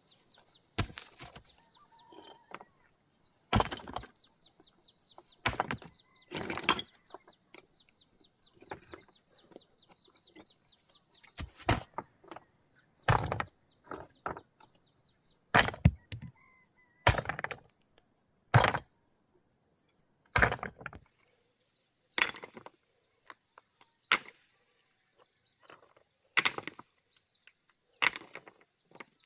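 Heavy hand-tool blows struck one at a time, about fourteen hard strikes spaced every one to two seconds, as in chopping or breaking material by hand. A high, thin chirring runs in the background at the start and again near the end.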